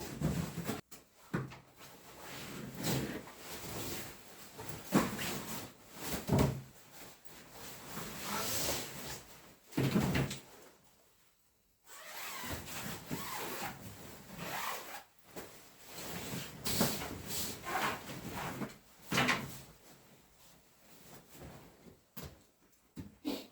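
Irregular wooden knocks, scrapes and rubbing, as of wood being handled or worked, with a short break about eleven seconds in.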